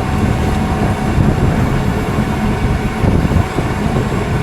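Farm tractor running steadily while pulling a planter through a field: a continuous low rumble with a faint steady hum over it.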